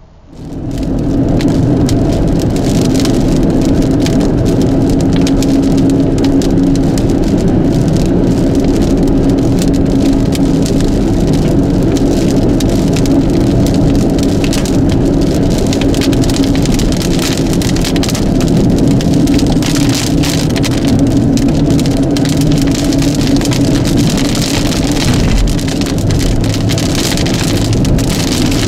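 Heavy rain pelting the car's roof and windshield in a dense patter while driving, over a steady engine and road hum. It comes in suddenly within the first second.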